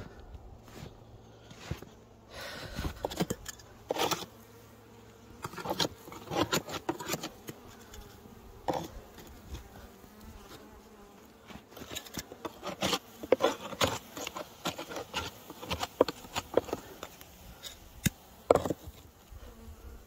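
Honeybees buzzing around a hive, with many sharp knocks and scraping clicks from hive handling scattered through it, loudest in the second half.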